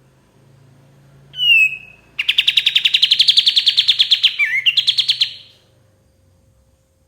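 Kapas tembak songbird singing: a sharp, falling whistled note, then a fast trill of about ten notes a second lasting about three seconds.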